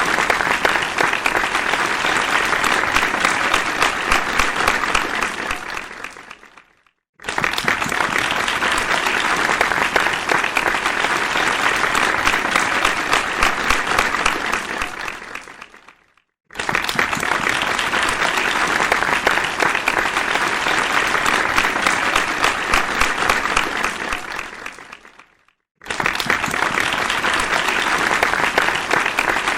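Dense crowd applause that fades out to a brief silence and starts again abruptly, three times, about every nine seconds.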